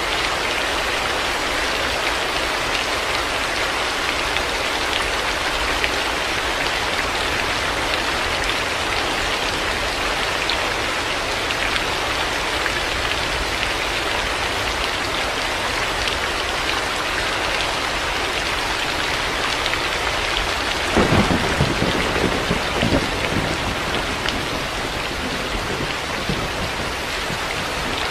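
Heavy rain falling steadily, with a low rumble of thunder rolling in about three quarters of the way through and dying away over a few seconds.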